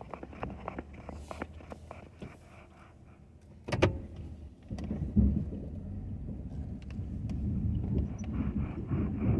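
Snow-plowing pickup truck running, with scattered clicks at first and one sharp knock about four seconds in, then a low rumble that grows louder.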